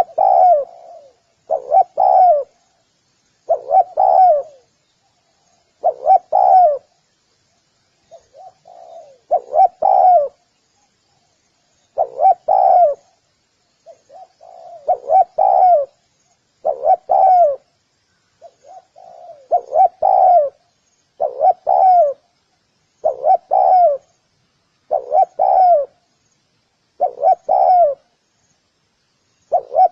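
Spotted dove calling over and over: short phrases of low coos, one about every two seconds, some opening with a few softer notes.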